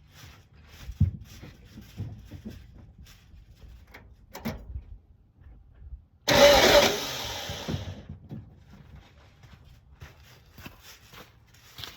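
Starter cranking the 1970 VW Beetle's engine in one short burst of under two seconds, starting suddenly about six seconds in, to drive a compression test on cylinder 2. Before it come scattered clicks and knocks.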